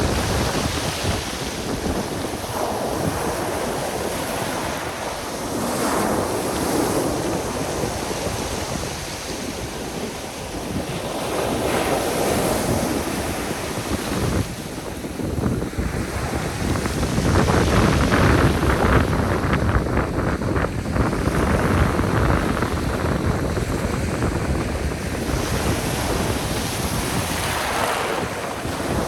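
Black Sea surf breaking on the shore, swelling and easing every few seconds, with wind buffeting the microphone.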